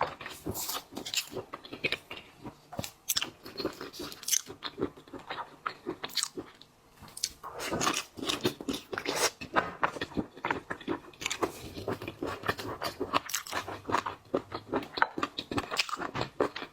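A person biting and chewing seafood, with a dense, irregular run of sharp crunches and clicks and a brief pause about six or seven seconds in.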